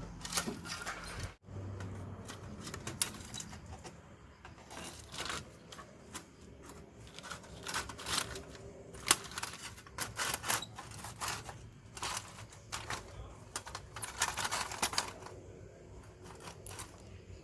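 Split firewood giving a run of irregular light clicks and knocks, with one sharper clack about halfway through.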